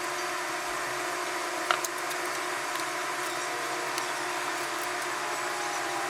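Steady hiss with a faint machine hum, unchanged throughout, and one sharp click a little under two seconds in.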